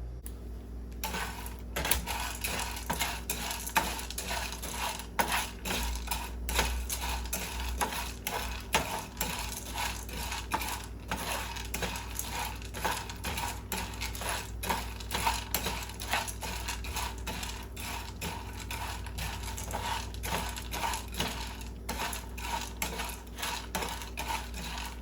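Dry pasta shells being stirred and toasted in a pan: a dense, continuous clatter of small clicks and rattles, starting about a second in.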